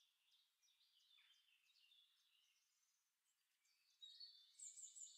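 Near silence with faint, high, short bird chirps, growing a little louder about four seconds in.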